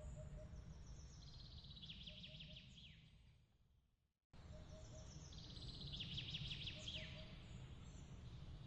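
Soft outdoor ambience: a low steady rumble with a songbird's quick trilled song ending in a falling note, and faint short repeated chirps. The track fades out to silence just before the middle, then cuts back in abruptly and the same trilled song plays again, as a looped recording restarting.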